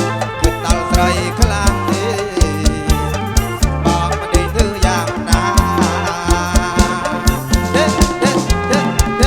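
Live amplified kantrum music: a band playing a steady drum-kit beat under a stepping bass line and a wavering melody.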